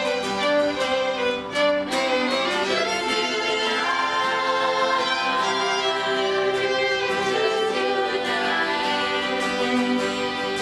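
Live band playing an instrumental passage of a slow song, a violin carrying the melody in long, held notes.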